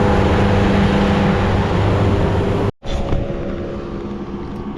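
Boat's outboard motor running at speed under a steady rush of wind and water. About three seconds in the sound cuts off abruptly and returns as a quieter, steady engine hum.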